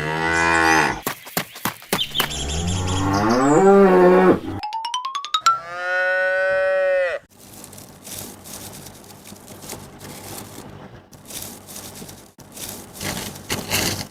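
Cows mooing: several long, loud moos in the first seven seconds, one falling, one rising and one held steady. Then only faint small clicks and taps.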